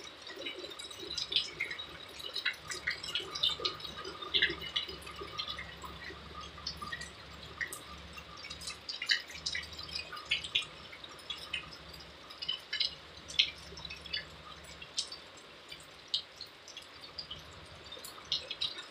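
Rain dripping: irregular drops and ticks of water falling onto hard surfaces. Under them runs a low rumble that fades out about fifteen seconds in.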